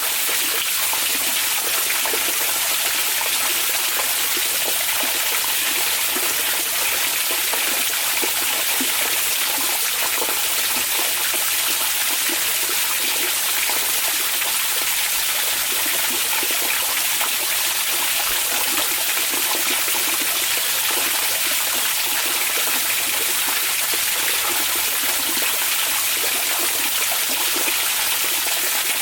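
Hot-spring water running and trickling in a steady, unbroken rush, without pauses or changes.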